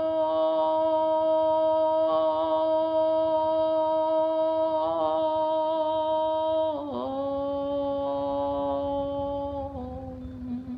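A single voice toning one long wordless note, held steady with slight shifts in vowel colour, then sliding down to a lower note about two thirds of the way through and holding it until it fades near the end.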